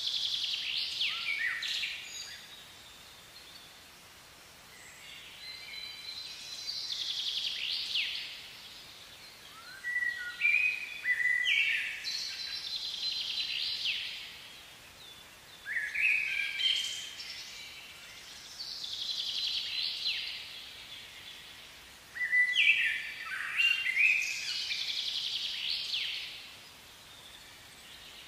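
A songbird singing the same short phrase over and over: a two-to-three-second run of quick falling whistles and trills, repeated every few seconds over a faint steady hiss.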